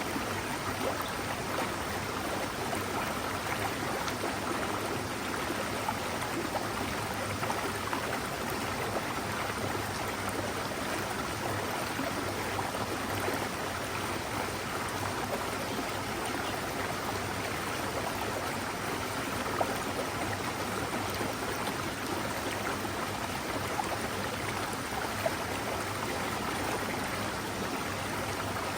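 Mountain stream running steadily over rocks in a continuous, even rush of water.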